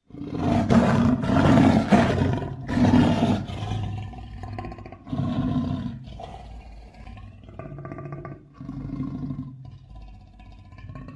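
Monster roar sound effects mixed from big-cat and giant-ape roars. It starts abruptly with three loud roars in the first few seconds, then several shorter, quieter growling roars.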